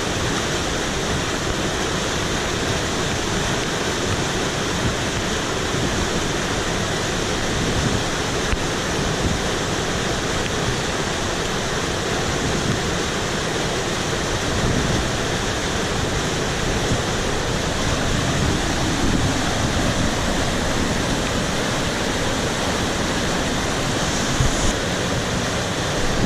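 Monsoon-swollen mountain stream rushing steadily, a loud, even wash of fast-flowing water.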